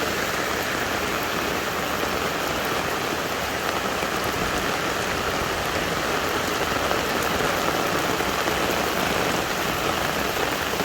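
Heavy storm rain falling steadily on hard surfaces, a dense, even hiss.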